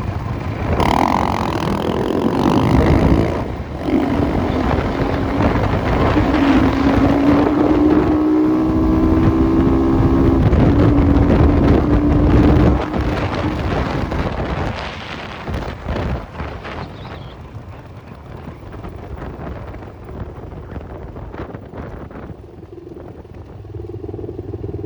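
Enduro motorcycle engine running under throttle while riding, with wind buffeting the microphone. About halfway through the engine drops back and runs quieter.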